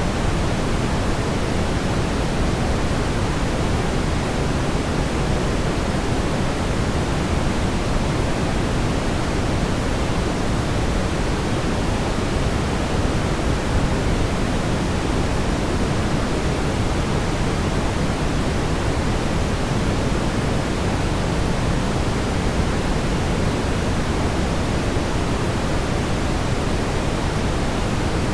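Steady brown noise: a continuous, even rumbling hiss weighted toward the low end, with no change in level.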